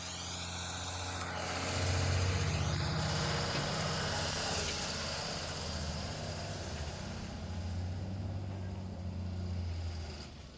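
Diesel engine of a JCB 3DX backhoe loader running and working under load, its sound swelling about two seconds in and again a few seconds before the end, then dropping away abruptly.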